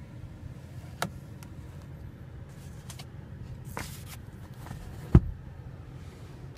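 Plastic clicks from a car's sun visor and vanity mirror being handled, with a loud low thump about five seconds in, over a steady low hum in the cabin.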